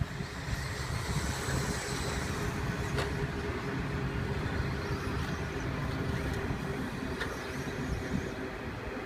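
Electric 1/10-scale RC stadium trucks running around the track, with a faint high motor whine over steady low rumble and a single sharp click about three seconds in.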